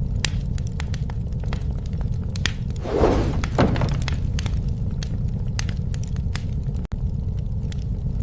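Campfire burning: a steady low rumble of flames with frequent sharp crackles and pops of the wood, and a louder rush of hissing noise about three seconds in.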